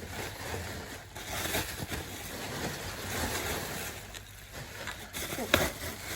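Rustling and light clattering as packing material and marimba frame parts are handled, with one sharp knock about five and a half seconds in.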